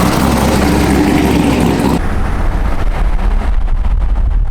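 A car running, its sound changing abruptly about two seconds in to a low rumble.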